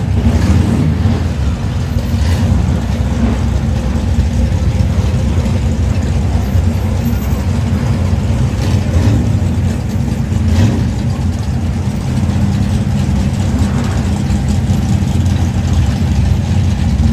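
Car engines running in slow street traffic, a steady deep rumble with no real change in pitch.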